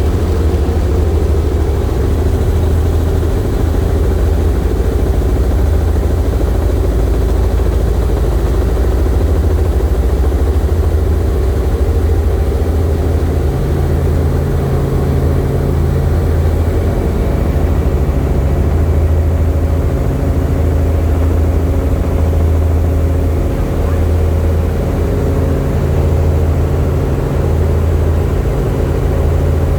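Helicopter engine and rotor noise: a steady, loud low drone that does not let up.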